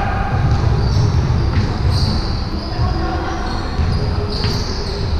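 Basketball bouncing on an indoor court during a game, with several short high squeaks and voices in the background.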